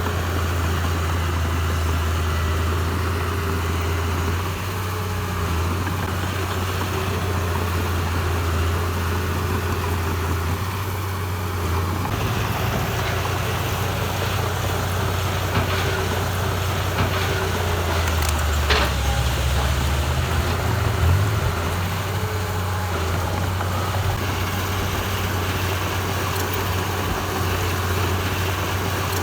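Diesel engine of heavy earthmoving machinery running with a steady low drone. Its note changes after about twelve seconds, and about two-thirds of the way through it briefly rises and falls, with a single sharp click.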